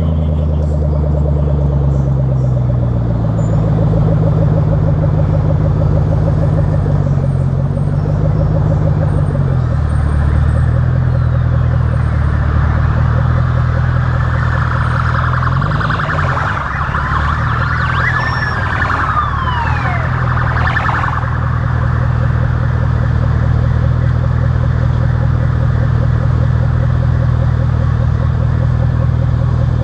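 Ford Mustang's 4.6-litre V8 running steadily, its exhaust note shifting slightly in pitch during the first ten seconds. Around the middle, a siren wails up and down over it for several seconds.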